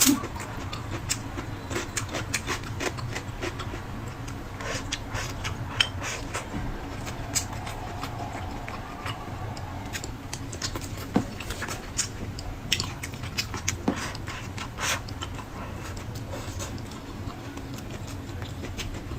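Close-miked eating sounds: chewing with irregular wet mouth clicks and smacks, over a steady low hum.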